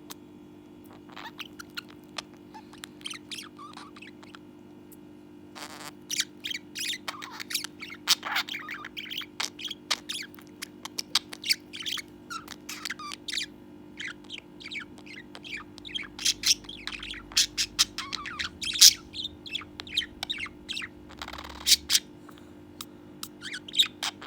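Pet budgerigar chirping and warbling, with a few scattered chirps at first and then a busy, continuous run of rapid chatter from about six seconds in.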